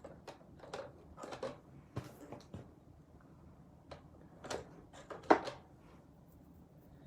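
A dozen or so scattered light clicks and taps of small objects being handled and set down on a work table, the sharpest about five seconds in.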